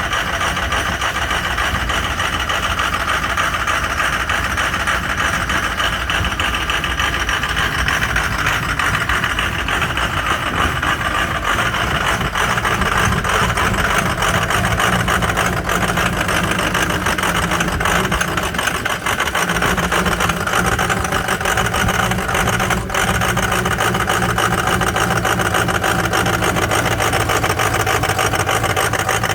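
Ford 6.0 L Power Stroke V8 turbodiesel idling steadily after a cold start, running with some bad injectors. A single brief click sounds about three-quarters of the way through.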